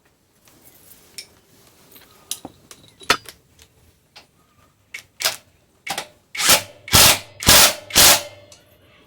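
Hand work on a steel motorcycle frame: scattered sharp clicks and taps, then a run of short, harsh scratching bursts, the four loudest near the end about half a second apart.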